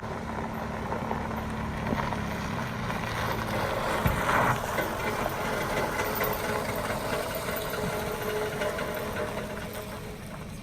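Tow vehicle's engine running under load while pulling a car up a snowy hill, getting a little louder through the middle and easing off near the end.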